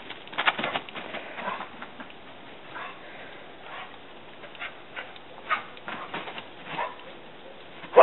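A dog making short, scattered sounds.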